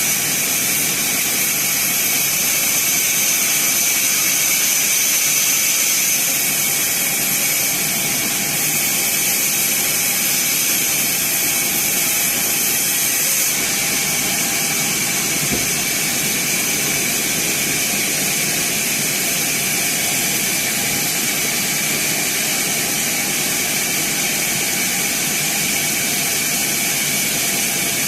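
Sawmill band saw running steadily through teak wood: a loud hiss with a steady high whine, which shifts slightly about six seconds in and again around thirteen seconds.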